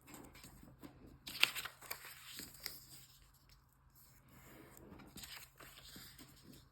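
Origami paper rustling and crinkling as it is folded and creased by hand, with a sharper crackle about a second and a half in.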